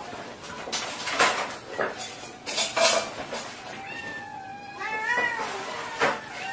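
Kittens mewing, with a run of high, wavering mews about four to five seconds in, over sharp clinks and clatters of dishes.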